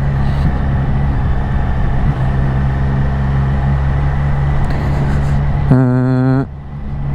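Triumph Street Triple RS three-cylinder motorcycle engine running at a steady speed under wind and road noise. About six seconds in, a louder wavering pitched sound lasts about a second, and the overall level dips just after it.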